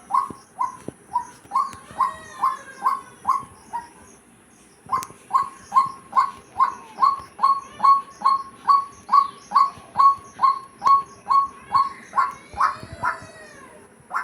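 A bird calling a long series of repeated short single notes, evenly spaced at about two or three a second, with a brief pause about four seconds in. Other bird calls with sweeping, bending notes overlap twice, about two seconds in and near the end.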